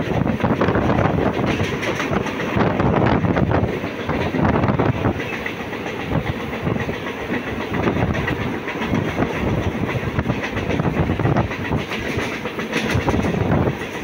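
Mumbai suburban local electric train running at speed, heard from inside the coach: a steady rumble with the wheels clattering over rail joints and points.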